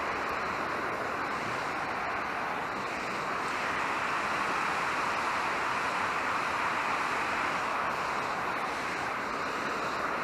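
Steady rushing roar of water pouring over a waterfall, even and unbroken.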